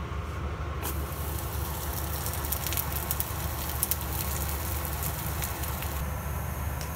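Chive pocket pancake (jiu cai he zi) sizzling and crackling as it fries in a non-stick pan, over a steady low hum. The sizzle sets in about a second in and eases near the end.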